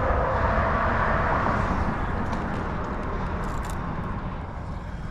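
Road traffic on the bridge overhead: a passing vehicle's tyre and engine noise, loudest at first and slowly fading away, over a low rumble.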